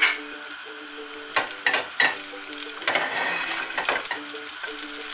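Sliced garlic and chili sizzling in hot olive oil in a frying pan, with a silicone spatula clicking and scraping against the pan as they are stirred from about a second and a half in.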